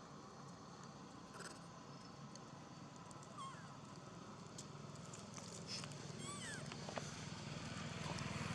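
Baby monkey giving a few short, faint, high-pitched squeaks that fall in pitch, with a low rumble growing louder near the end.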